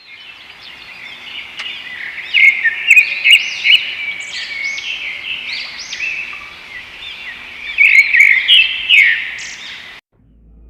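Several birds calling and chirping at once, a chorus of quick, overlapping up-and-down notes that cuts off suddenly near the end.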